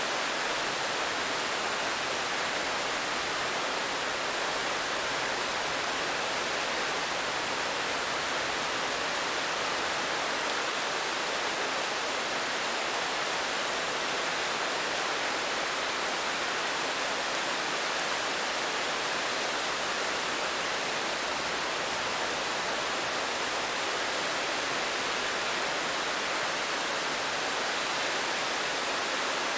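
Steady rain falling, an even hiss with no single drops, thunder or changes standing out.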